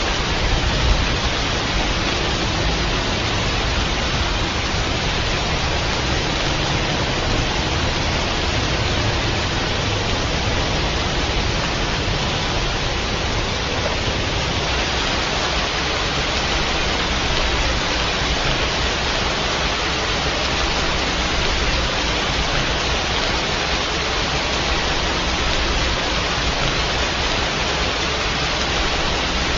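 Rain falling steadily, an even, unbroken hiss with a low rumble underneath.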